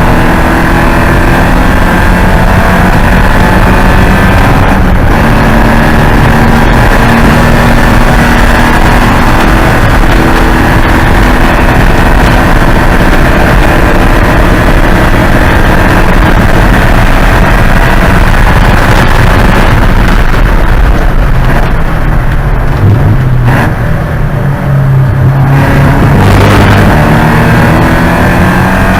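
Porsche 944 Spec race car's four-cylinder engine running hard at high revs. About three-quarters of the way through, the note drops and thins briefly as the car slows, then it pulls strongly again near the end.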